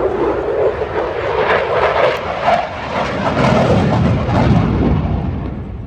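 Airplane flying past at an air show: a loud engine rush that swells and then fades away over the last second.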